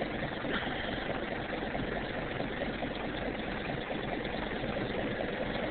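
Kubota tractor's diesel engine idling steadily after a frosty cold start, heard from inside the cab.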